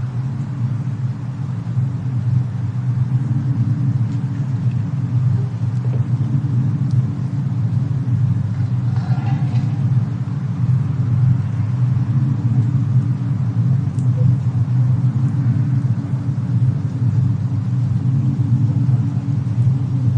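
Steady low rumble of a snowstorm ambience, with a few faint crackles.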